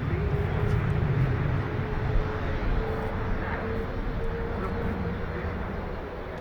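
Jet engines of Hongdu L-15 advanced jet trainers flying a formation display: a steady rumble with a faint whine slowly rising in pitch, easing off slightly near the end.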